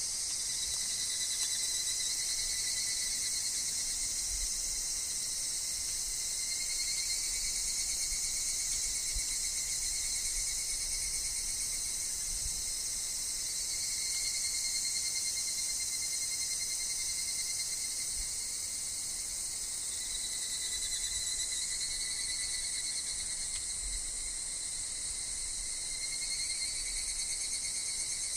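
Dense insect chorus in woodland, a steady high shrill, with evening cicada (higurashi) calls swelling and fading every several seconds beneath it. A faint low rumble of wind runs under the chorus.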